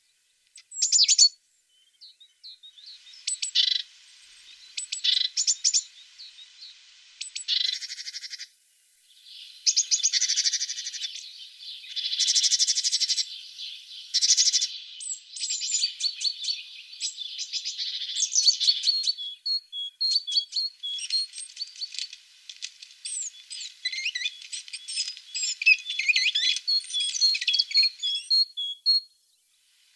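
A tit singing and calling: a string of high, quick chirps and trills, getting busier and more rapid in the second half.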